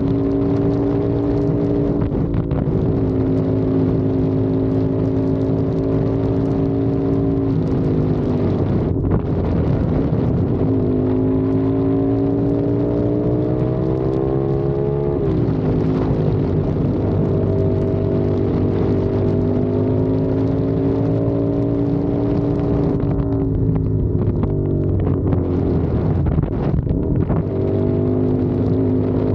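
CFMOTO 450SR parallel-twin engine and exhaust under way, holding a steady pitch for stretches. It climbs steadily as the bike accelerates around the middle, drops sharply at a shift, and dips and recovers a few times near the end.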